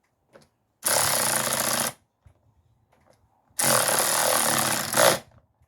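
Impact wrench run in two short bursts, the second a little longer, snugging down a motor mount bolt.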